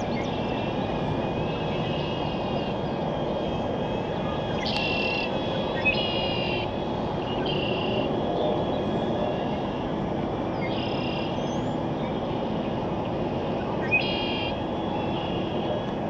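Short bird calls of about half a second each, repeated every second or few seconds, over a steady rushing background noise.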